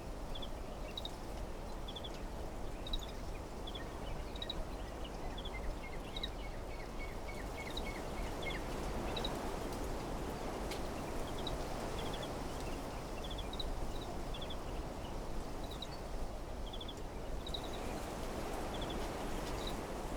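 Wind blowing through trees, swelling in gusts about halfway through and again near the end. A bird repeats short high chirps in twos and threes throughout, and a quick run of lower notes comes about six to eight seconds in.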